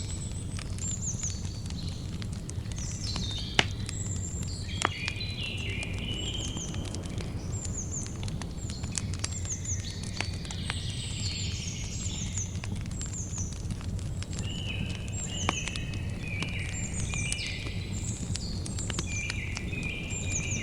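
Campfire crackling, with a few sharp pops standing out (the loudest about 3.5 and 5 seconds in, another near 15 seconds) over a steady low rumble. Birds chirp throughout in quick runs of short, falling high notes.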